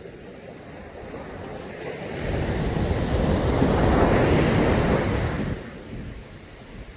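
Caribbean sea waves breaking on a beach: a wave surges in about two seconds in, is loudest around four seconds, and washes away near six seconds.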